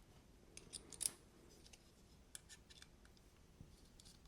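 Faint metallic clicks and ticks from a folding knife being handled and worked at its pivot, with the sharpest click about a second in and a few lighter ticks later.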